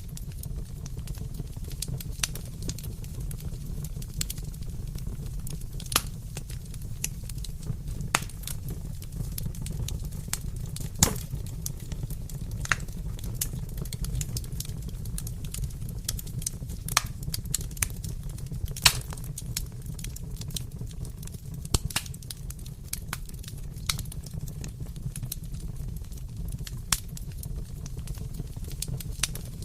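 Wood fire crackling in a fireplace: irregular sharp pops and snaps, a few each second, over a steady low rumble, with louder pops about 11 and 19 seconds in.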